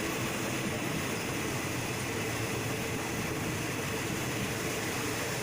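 Steady running noise of a train heard from inside a passenger car: an even rumble and hiss with no separate knocks or clicks.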